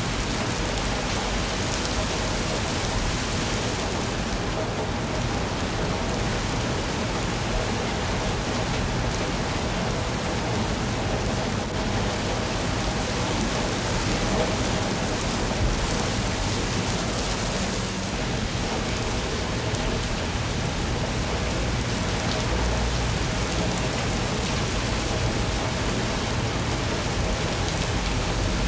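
Steady heavy rainfall pattering on surfaces, with a continuous low rumble underneath.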